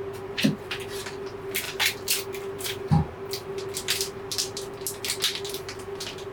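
Raindrops and drips tapping irregularly on the roof of a truck camper, with a steady low hum underneath and two dull thumps, about half a second and three seconds in.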